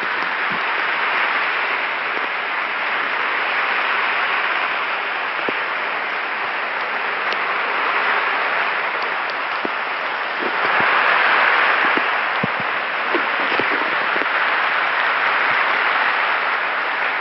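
Steady rushing noise of a stormy sea, wind and surf together, swelling about ten seconds in, with a few faint scattered knocks.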